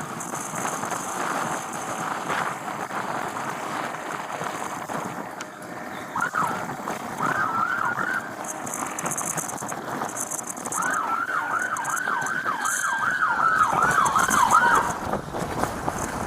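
Police car siren giving a few short yelps about six seconds in, then a fast rising-and-falling yelp cycling for about four seconds near the end, over steady vehicle and road noise.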